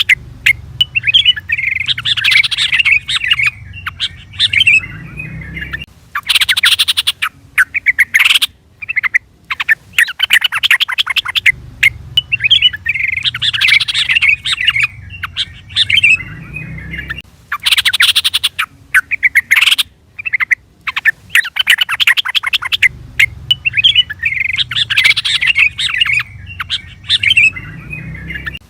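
Yellow-vented bulbul (trucukan) call recording used as a lure: bubbly, chattering song phrases alternating with bursts of rapid sharp notes. The same sequence loops about every 11 seconds.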